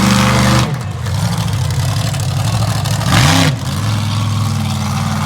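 Monster truck engine running loud, dropping back just under a second in. It is blipped up and back down once about three seconds in, then settles into a steady idle.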